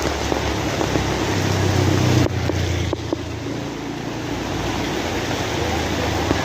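Steady heavy rain hiss, with a low rumble underneath that swells and then cuts off abruptly a little over two seconds in.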